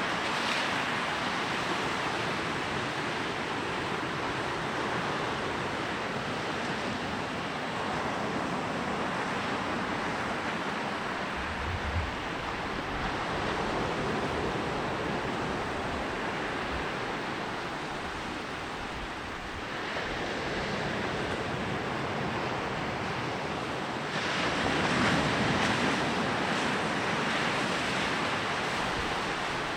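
Sea waves breaking and washing up a beach in a continuous surf roar, swelling louder as bigger waves break about two-thirds of the way in and again a few seconds later.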